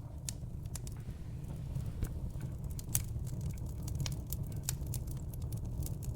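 Wood fire burning in a fireplace: logs crackling with scattered sharp pops, the clearest about three seconds in, over a steady low rumble.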